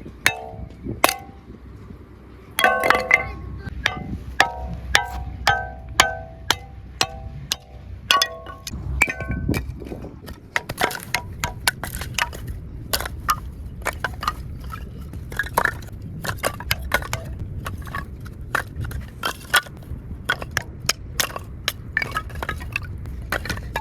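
Irregular metallic clinks and knocks, dozens of them, some ringing briefly with a clear tone, mostly in the first ten seconds.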